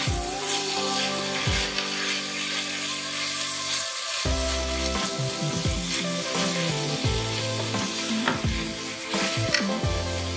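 Grated potato and carrot sizzling as they fry in a pan, with a wooden spatula stirring and scraping through them. Background music with a beat plays underneath.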